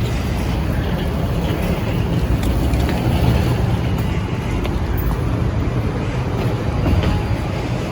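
Steady low rumble of vehicle noise, with no sudden events.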